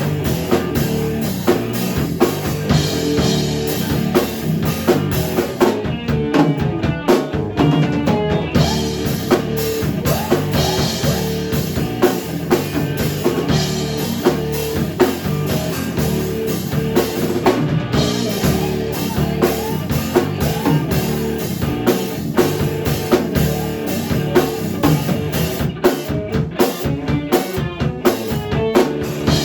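A band playing an instrumental passage of a folk-song arrangement: a drum kit keeps a steady beat with bass drum and rimshots under sustained pitched instruments, guitar among them.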